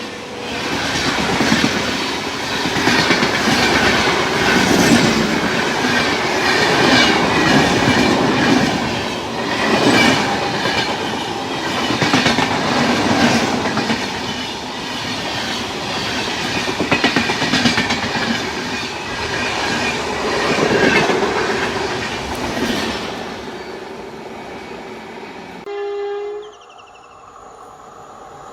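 A train passing, its wheels clattering over the rail joints in repeated clusters of clacks. The sound fades away after about 23 seconds. A short steady tone follows near the end.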